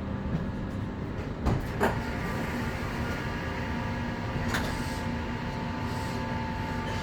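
Steady hum inside a Doha Metro train car at a station. Two sharp knocks come just under two seconds in and another at about four and a half seconds, and a steady high tone sets in about two seconds in.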